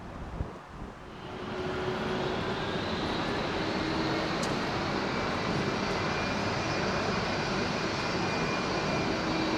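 Airbus A321neo jet engines, their noise swelling about a second in and then holding steady and loud.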